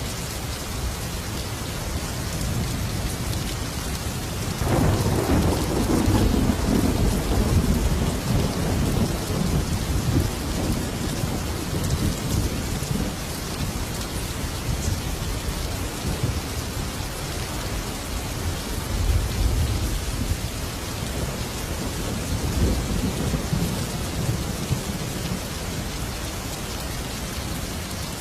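Thunderstorm: steady heavy rain with a thunderclap breaking about four or five seconds in and rumbling on for several seconds, then fainter rolls of thunder later on.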